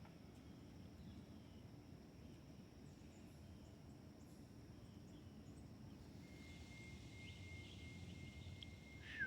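Near silence: faint outdoor background with a low rumble and a few faint, scattered bird chirps. Over the last three seconds a thin steady high tone is held, ending in a short falling whistle just before the end.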